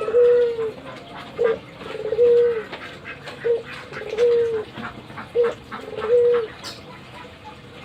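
Albino Barbary dove (puter) cooing eagerly: a repeated two-part coo, a short note then a longer drawn-out one, four times at about two-second intervals, stopping near the end.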